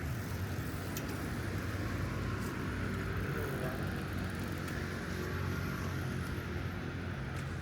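City street traffic: a motor vehicle running close by, a steady low hum that swells slightly midway.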